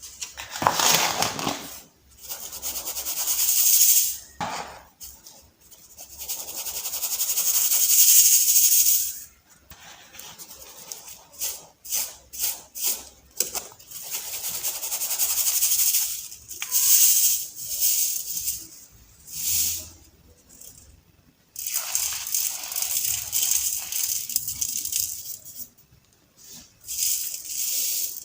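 Soft baking soda balls crumbling and being crushed: a series of gritty, crunchy crumbles that come and go every few seconds, with a quick run of small crackles about halfway through.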